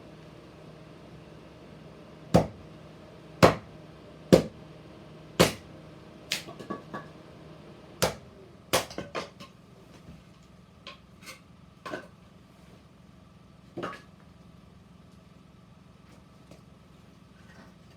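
Firewood being split: four loud, sharp chopping strikes about a second apart, followed by a cluster of lighter knocks of wood and a few scattered knocks that thin out toward the end.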